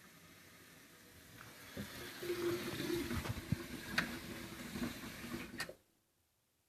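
Water starting to run through an Ariston water heater as the tap is opened, with a steady low hum and two sharp clicks.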